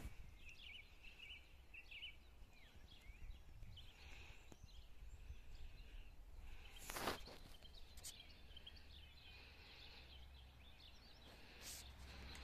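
Faint outdoor ambience with small birds chirping in the distance, and a few soft clicks, the clearest about seven seconds in.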